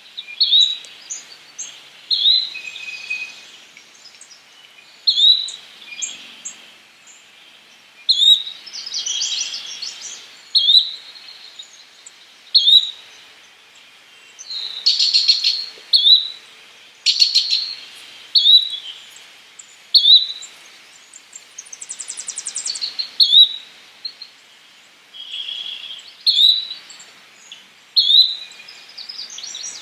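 Yellow-bellied flycatcher calling: a short, sharp high note repeated every one to two seconds, with longer rapid trilled phrases in between around the middle.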